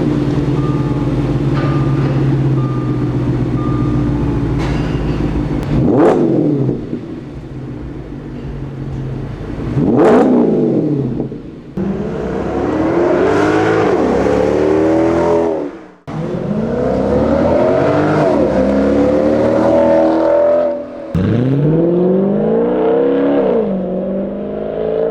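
Audi S5 fitted with an AWE Tuning Touring Edition exhaust and non-resonated downpipes: the engine idles, is revved sharply twice, then accelerates hard several times, its pitch climbing and dropping back at each gear change.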